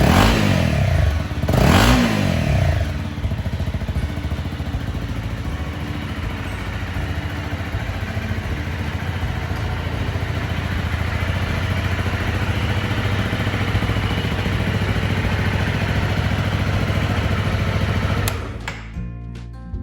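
Honda CRF250 Rally's single-cylinder engine, fitted with an SP Tadao Power Box exhaust, blipped twice near the start, the revs rising and falling back, then idling steadily. Near the end the engine sound cuts off and acoustic guitar music begins.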